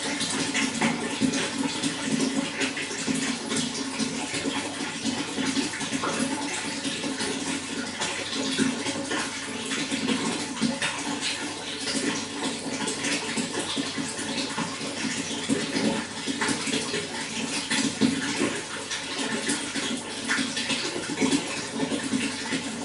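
Running water flowing steadily, a continuous splashing with many small spatters throughout.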